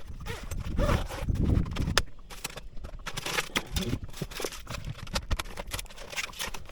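Irregular knocks and clatter of cooking gear and food containers being handled and set down on the boat as breakfast is prepared.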